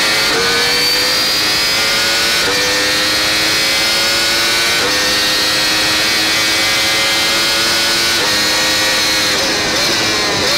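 Yamaha R1 superbike's crossplane inline-four at full throttle, heard from an onboard camera with wind rush: the engine note climbs steadily through the gears, dropping sharply at four quick upshifts. Near the end the note breaks up as the throttle closes for braking.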